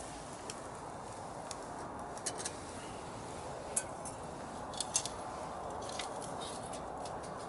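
Wood fire crackling: irregular sharp pops and snaps over a steady background hiss, with a few louder pops around the middle.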